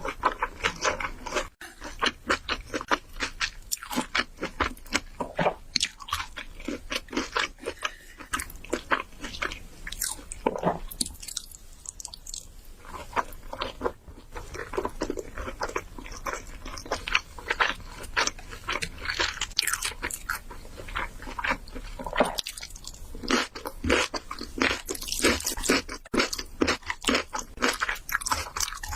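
Close-miked eating sounds: a person chewing food, a dense, continuous run of quick wet clicks and crunches.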